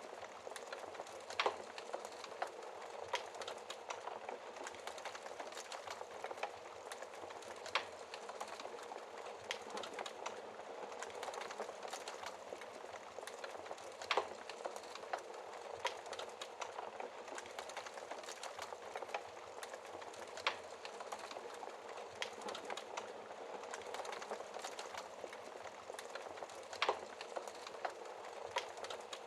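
Wood fire burning behind a glass fireplace shield: a steady hiss with many small, irregular crackles, and a handful of louder pops spread through.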